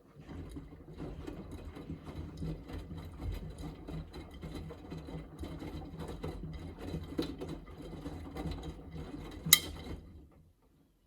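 Miele W3985 washing machine's drum turning the wet laundry in a rinse tumble: the motor's low hum with a rumble and a clatter of small knocks. A sharp click comes near the end, and the drum then stops.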